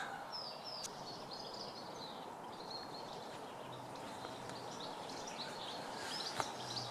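Small birds chirping in the woodland, many short high calls over a faint steady background hiss.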